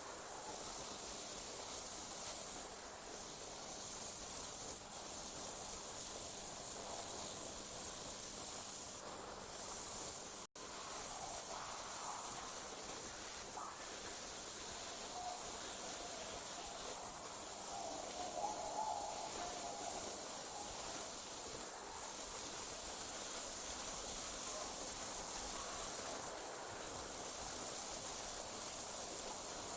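Night insects trilling steadily in one high-pitched band, with short breaks every few seconds. The whole sound cuts out for a split second about ten seconds in.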